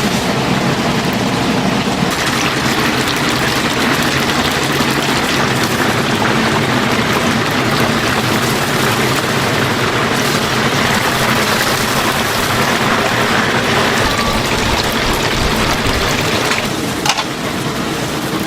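Chicken deep-frying in a vat of hot oil: a steady, loud sizzle with a low hum beneath it and a single sharp click near the end.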